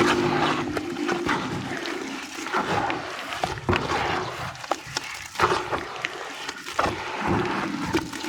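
Wet sand and white cement being crumbled and squished in water, with irregular crackles and squelchy clicks.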